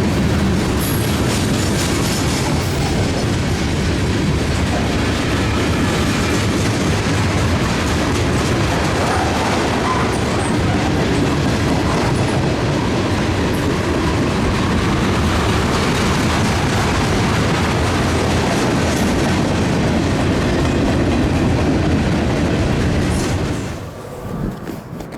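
Cars of a CSX freight train rolling past, a steady loud rumble with wheels clicking over rail joints. The sound stops abruptly near the end.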